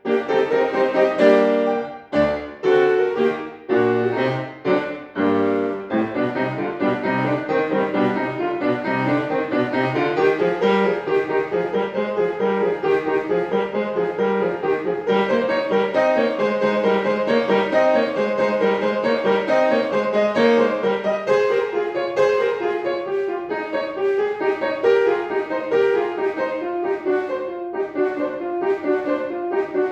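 Solo piano playing a classical piece: a few separate, detached chords over the first six seconds or so, then a continuous flow of quick running notes over a lower line.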